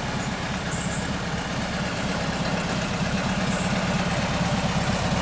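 Air-cooled flat-four engine of a VW Type 2 bus idling steadily, with a dense, even firing beat.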